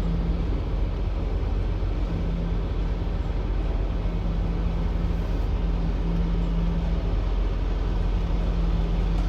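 Semi-truck diesel engine running at low speed during a backing manoeuvre: a steady rumble with a low hum that fades in and out several times.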